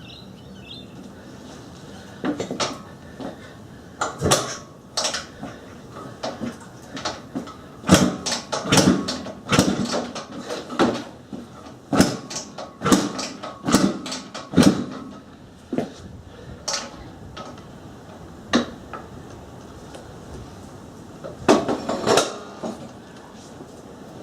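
Repeated kick-start attempts on a 1980 Husqvarna CR390's two-stroke single: irregular metallic clanks and knocks from the kick lever and the engine turning over, in short bunches, with the engine never firing.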